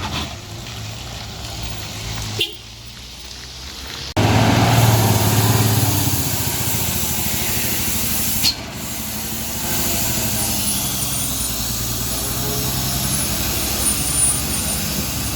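Heavy truck engines running on the road, a steady low drone. About four seconds in the sound jumps much louder with a rushing hiss for about four seconds, then settles back to engine noise.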